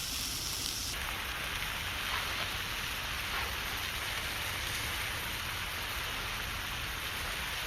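Mushrooms sizzling in butter in a thin Finnish wilderness frying pan: a steady frying hiss that brightens about a second in.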